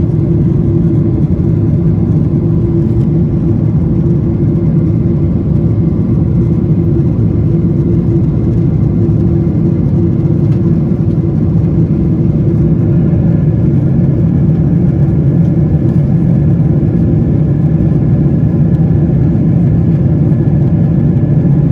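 Airplane engines running in a steady, loud low drone, with a faint high whine joining about halfway through.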